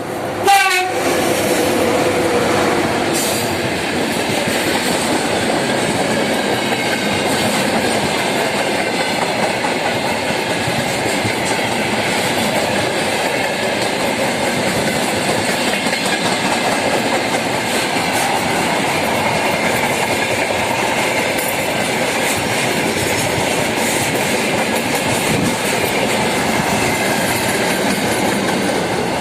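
VL80S electric locomotive going close by with a freight train: a short, sharply falling tone as it passes about half a second in, then the freight wagons rolling past with a steady rumble and clickety-clack of wheels over rail joints.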